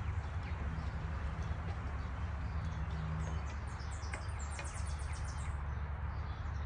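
A bird chirping a quick run of short high notes from about four seconds in, over a steady low rumble of outdoor background noise.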